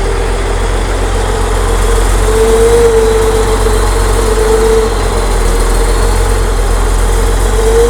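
Truck engine running with a steady low drone. A whine rises in about two seconds in, fades near the five-second mark and returns near the end.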